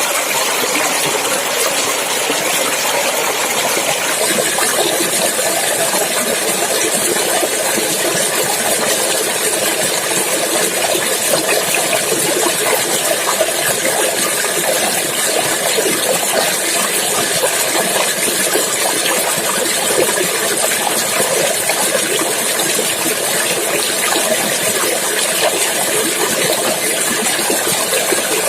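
Clear running water in a stream, a steady rushing and splashing that holds an even level throughout.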